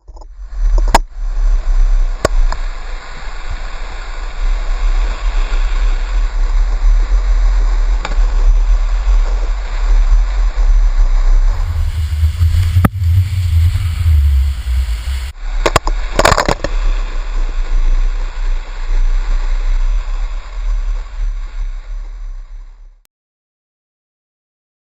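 Water rushing and splashing under a heavy low wind rumble on the microphone during a cable-park wakeboard ride, with a few sharp knocks. The sound changes character for a few seconds midway and cuts out about two seconds before the end.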